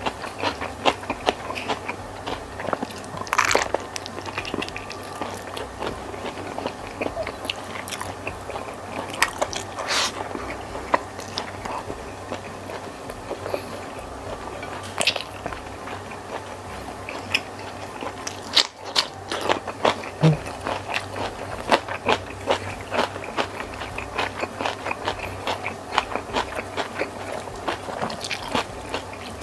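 Close-miked eating sounds: chewing on a mouthful of spicy squid and rice, with many short wet clicks and smacks, and fingers tearing at the saucy squid on the plate.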